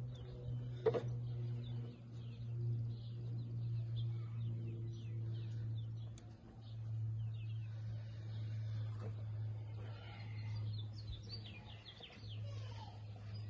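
Small birds chirping repeatedly in short, quick calls over a steady low hum, with a single sharp click about a second in.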